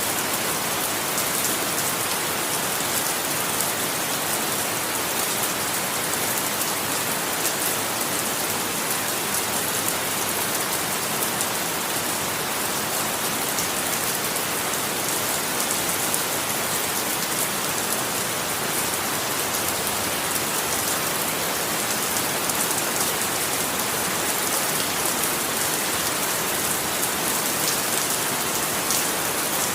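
Steady rain falling, an even hiss of many drops on a surface with fine patter, no pauses or changes.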